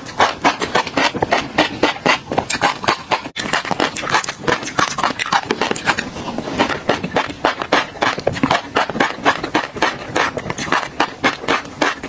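Close-miked chewing of a mouthful of black tobiko (flying fish roe): rapid crunchy pops and clicks, several a second, as the tiny eggs burst between the teeth.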